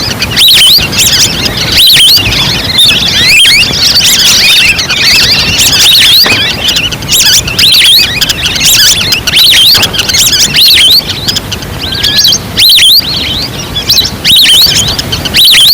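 A dense flock of wild ducks calling: many overlapping short, high whistles, a lot of them rising, played as a lure call to draw waterfowl in.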